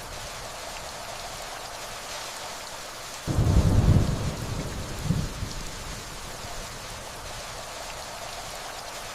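Steady rainfall hissing, with a low rumble of distant thunder that comes in suddenly about three seconds in, swells again briefly a couple of seconds later, then dies away under the rain.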